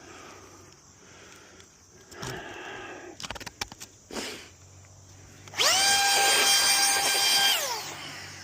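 Power drill run for about two seconds: its motor whine spins up quickly, holds steady and winds down, after a few clicks and scrapes of handling.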